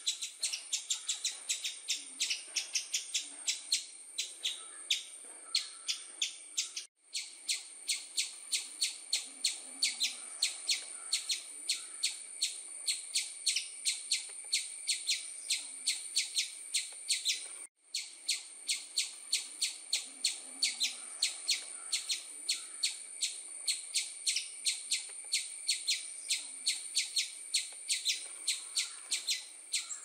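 Small bird chirping rapidly and evenly, about four short high chirps a second, breaking off for a split second twice.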